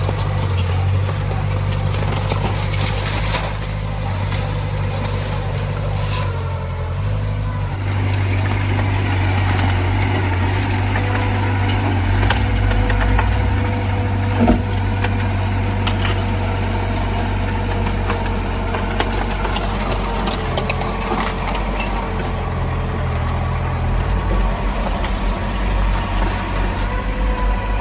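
Heavy earthmoving diesel engine running steadily under a low drone, with a faint whine above it and one sharp knock about halfway through.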